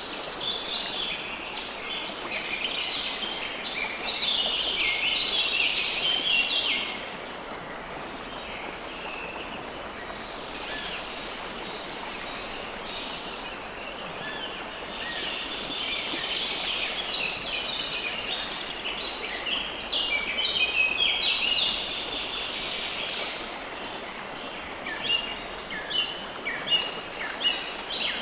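Steady rush of flowing river water with many small birds chirping over it. The chirping is dense for the first several seconds, thins out for a while, then picks up again, with separate sharp chirps near the end.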